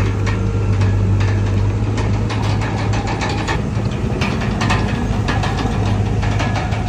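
Diesel engine of a Komatsu D31PX crawler bulldozer running steadily with a deep hum. From about two and a half seconds in, a run of metallic clanks and knocks sounds over it.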